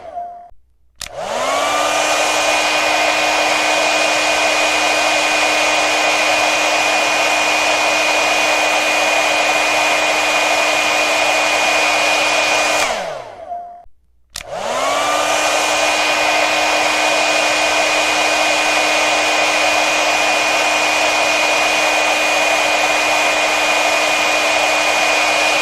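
Handheld hair dryer blowing with a steady rush of air and a motor whine. It winds down and stops right at the start, switches back on about a second in with the whine rising to pitch, runs steadily, then winds down about 13 seconds in and switches on again a second later.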